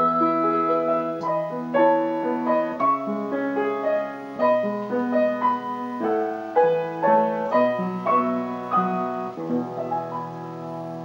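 Piano accompaniment playing the closing bars of a song: a series of struck notes and chords that thin out and fade away near the end.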